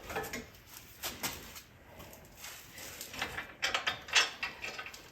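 Hand tools and metal ATV parts being handled, with irregular light clanks and clicks and a quick run of them a little past halfway.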